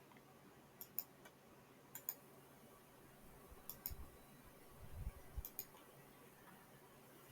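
Near silence with faint scattered clicks, several of them in close pairs, and a few soft low thumps about four to five seconds in.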